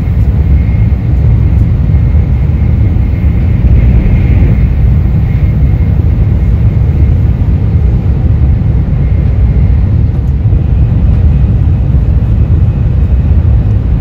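Steady low rumble of a Shinkansen bullet train running, heard inside the passenger car, with a faint high whine over it.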